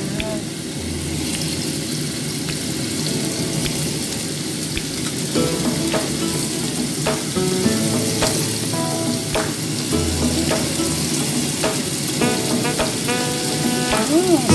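Sliced pork and chopped onion sizzling as they fry in oil in a nonstick frying pan, while more pork slices are laid into the pan by hand with short clicks and taps.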